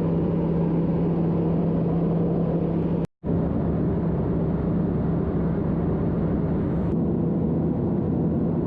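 Steady drone of an airliner's engines heard inside the cabin, a dense rumble with one held hum, cutting out for a moment about three seconds in.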